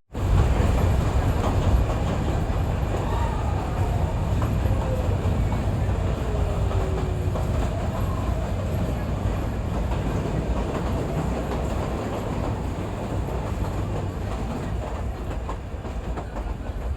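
Nilgiri Mountain Railway hill train running along the track: a steady low rumble and rattle of the carriages, with a few faint gliding tones between about three and eight seconds in.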